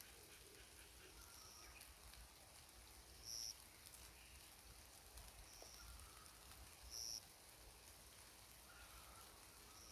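A bird calling in a forest: a short, clear high-pitched note repeated about every two seconds, some notes louder than others, with faint lower chirps between them.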